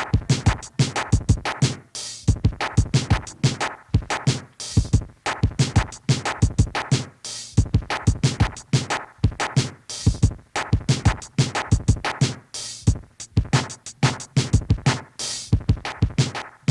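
Early-1980s hip hop instrumental break: a drum machine beat with turntable record scratching over it, and no rapping.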